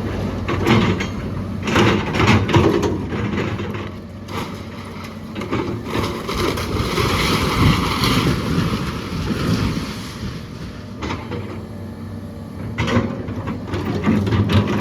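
A heavy machine's diesel engine running steadily while old rotten wood cracks and splinters and debris crashes down, with a long rush of collapsing material in the middle, as the porch of the house gives way.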